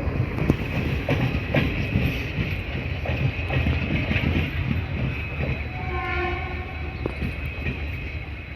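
Diesel-hauled train rolling along the track with a steady low rumble and wheels clicking over rail joints, and a short horn blast about six seconds in.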